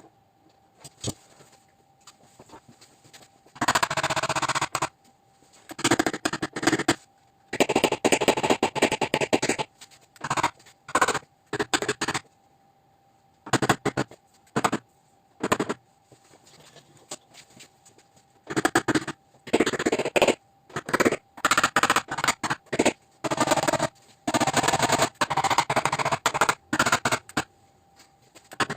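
Rapid runs of light taps from paintless dent repair tap-down work on a RAV4 steel trunk lid, knocking down high spots. The runs come in bursts of one to several seconds with short pauses between them.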